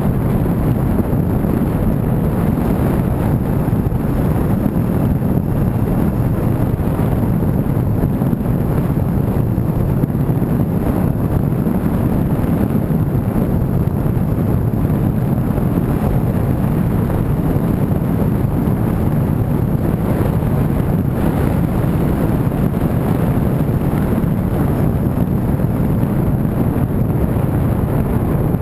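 Steady low road and engine noise of a moving car, with some wind noise on the microphone.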